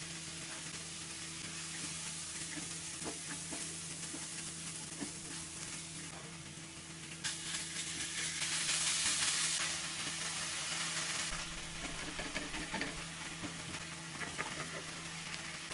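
Diced onion and garlic sizzling in margarine in a nonstick wok, with a wooden spatula scraping and tapping as it stirs. About seven seconds in, the sizzle grows louder as raw minced chicken goes into the hot pan.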